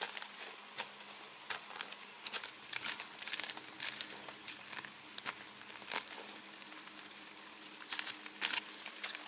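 Irregular rustling and crackling with scattered sharp clicks, busiest about three seconds in and again near the end.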